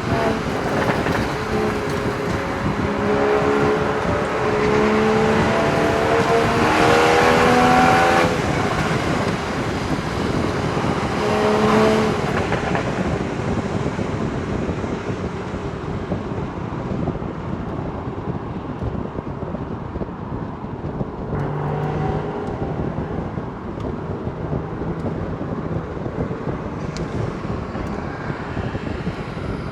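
Porsche Boxster Spyder 981's flat-six engine and exhaust accelerating. The pitch climbs for several seconds and then cuts off abruptly, there is a shorter climb a few seconds later, and it then settles to a lower steady drone under wind and road noise.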